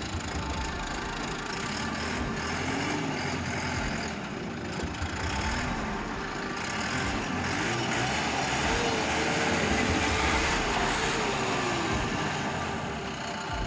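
Lovol 754 tractor's four-cylinder turbocharged diesel engine running as the tractor is driven.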